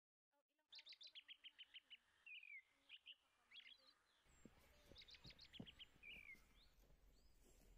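Faint songbird song: quick runs of high chirps, repeated a few times, with a couple of down-slurred whistled notes between them. A faint low noise comes in about halfway through.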